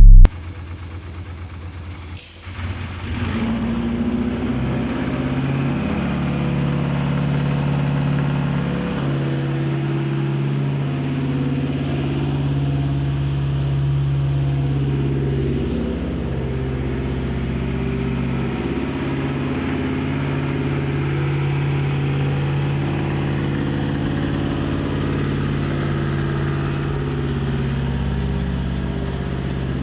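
A Mitsubishi 4B12 2.4-litre inline-four on an engine test stand starts about two seconds in and then idles steadily, on its first run after being installed on the stand for checking. A brief loud burst comes at the very start.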